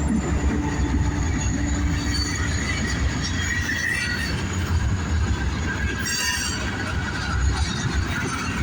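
Freight cars of a passing Buffalo and Pittsburgh Railroad train rolling by with a steady rumble, wheels squealing on the rails at intervals, with a brief high squeal about six seconds in.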